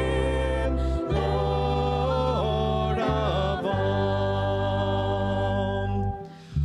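Voices singing a hymn in harmony over held low accompaniment notes that change every second or so, with a brief drop between phrases near the end.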